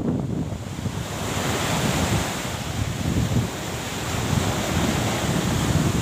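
Wind buffeting the microphone over the rush of sea surf.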